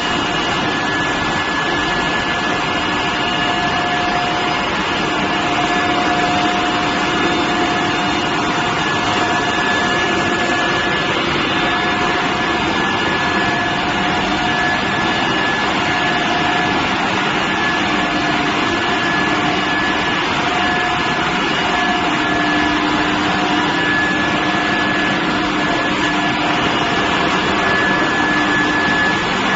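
Steel billet induction preheating furnace running: loud, even machine noise with a constant high whine and lower humming tones that come and go.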